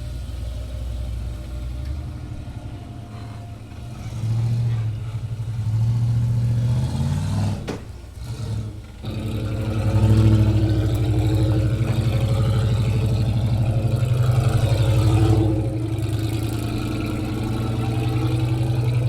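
Off-road 4x4's engine working under load as it crawls over a rock pile. The revs rise about four seconds in, drop briefly near eight seconds, then climb again and hold from about ten seconds.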